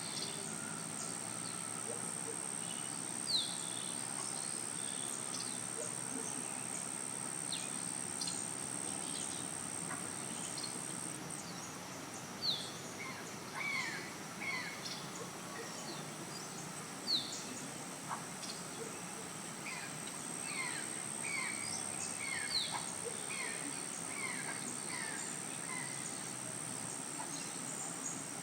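Birds calling with many short, falling chirps over a steady, high-pitched insect drone.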